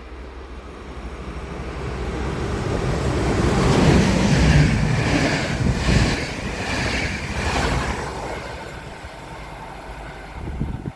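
Train passing through a station, its wheel and running noise growing louder to a peak about four to six seconds in and then fading away.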